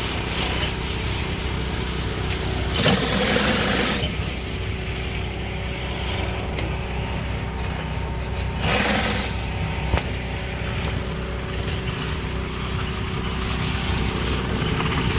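Hot-water pressure washer's engine running steadily, with two louder rushes of spray hiss, a few seconds in and again past the middle.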